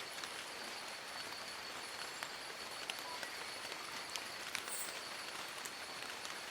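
Steady rain falling on forest leaves: an even hiss with scattered individual drops ticking through it.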